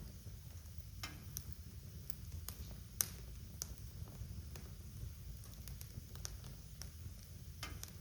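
Wood fire crackling in a fireplace: a steady low rumble of the flames with scattered sharp pops and snaps, the loudest about three seconds in.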